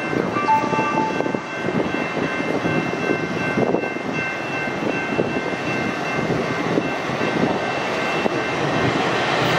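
Steady rumble of an approaching commuter train mixed with street traffic, with faint steady high tones throughout and two short beeps in the first second.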